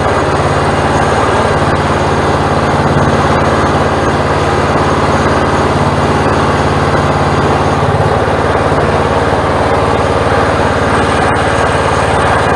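Log splitter's small gasoline engine running steadily, its note shifting slightly about eight seconds in.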